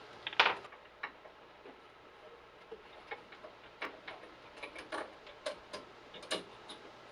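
Light, irregular metallic clicks and taps of the lathe's door-closing bolt, spring and washer being handled and fitted into the bed, the sharpest one about half a second in.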